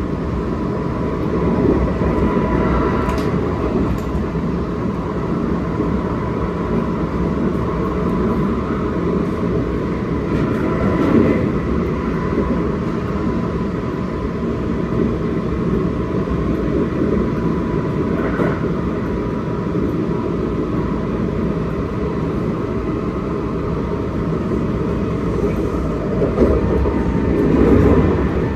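Kintetsu Osaka Line electric train with Hitachi GTO inverter control running at speed: a steady rumble of wheels on rail with a thin constant whine, and a few short clicks.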